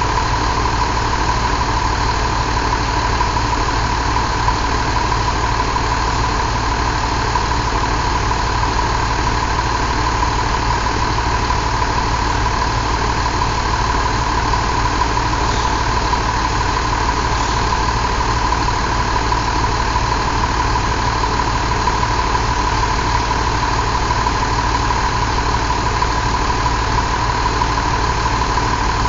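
Mercedes-Benz MBE926 inline-six diesel engine idling steadily.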